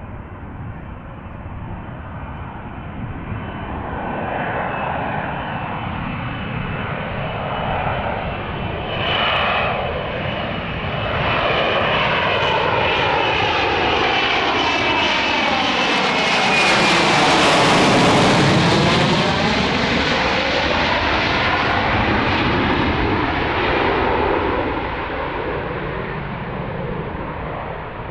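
F-35B Lightning jet passing close by: the engine roar builds steadily to its loudest a little past halfway, with a sweeping, whooshing shift in tone as it goes past, then fades away.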